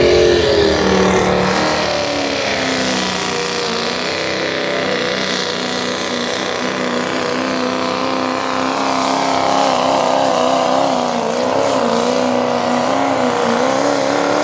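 Diesel four-wheel-drive pulling truck (8,000 lb Limited Pro class) running under full load while pulling the sled. The engine note drops about a second in, then holds steady with some wavering.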